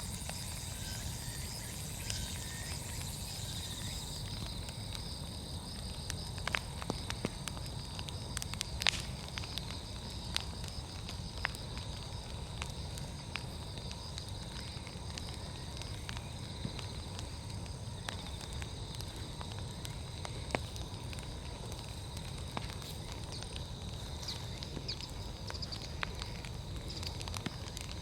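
Large wood bonfire burning with a low steady rumble and scattered sharp crackles and pops. Steady high insect trilling runs under it.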